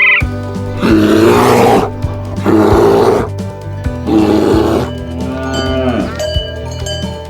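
Cattle mooing: three short, loud calls about a second and a half apart, over background music.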